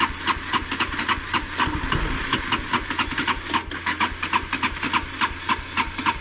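Bajaj Pulsar NS motorcycle's electric starter cranking the engine in a rapid, even chug of about six pulses a second without the engine catching, cutting off suddenly. The bike will not start, which the rider suspects is a run-down battery.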